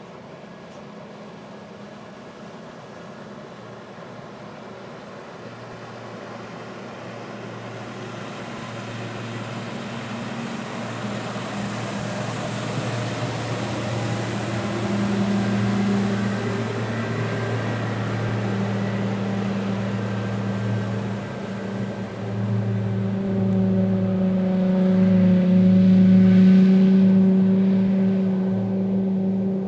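Yamaha outboard motor running under way, a steady low drone that grows louder through the first half, with a rushing hiss over it.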